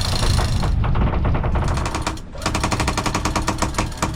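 Sailboat's electric self-tailing winch hauling in the mainsail halyard, its pawls clicking rapidly and evenly at about eight clicks a second, starting about a second and a half in, over the steady low running of the boat's engine.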